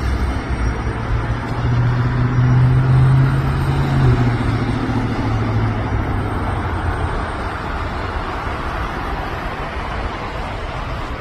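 Road traffic noise with one vehicle's engine droning louder for a few seconds, loudest about three seconds in, then fading away.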